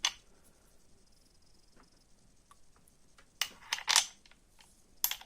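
A few sharp clicks and knocks from handling an angle grinder and its parts: one at the start, then a quick cluster about three and a half to four seconds in, the loudest, and one more near the end.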